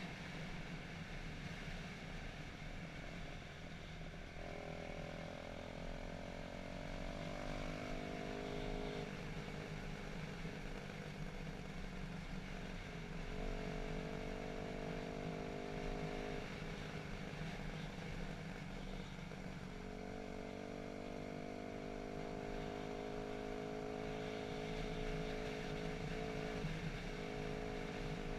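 Dirt bike engine running on a trail ride, holding a steady pitch for a few seconds at a time (rising slightly once), then easing off between, over a constant low rumble.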